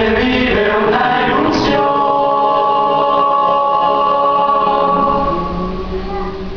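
A choir singing without instrumental accompaniment, several voices moving together and then holding one long chord for a few seconds.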